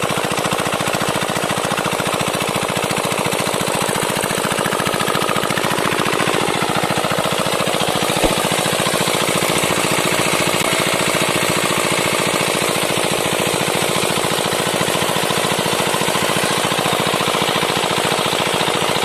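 Mini diesel engine running steadily at a fast, even knocking beat while driving a water pump, with one sharp click about eight seconds in.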